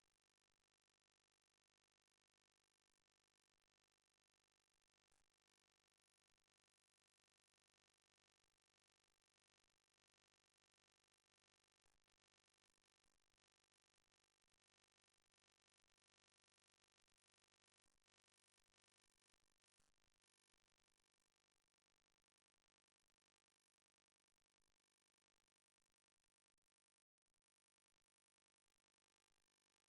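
Near silence: the soundtrack is essentially empty, with only the faintest scattered ticks.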